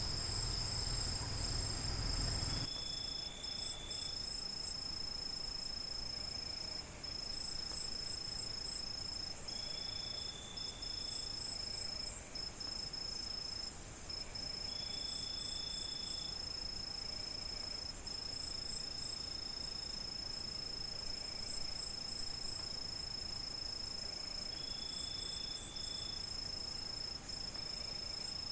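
Crickets chirring in a steady, unbroken high trill, with a shorter call repeated about every five seconds. A low rumble underneath cuts off abruptly about two and a half seconds in.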